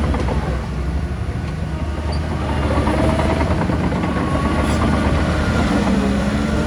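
Bulldozer's diesel engine running steadily, with wavering metallic squeals from about two and a half seconds in.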